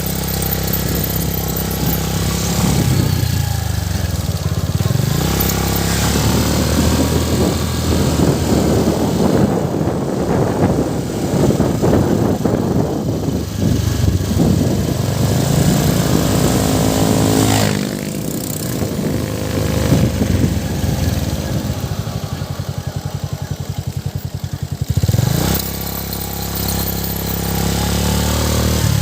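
Motorcycle engine running, its pitch rising and falling with the throttle, and settling into an even idle putter for a few seconds late on.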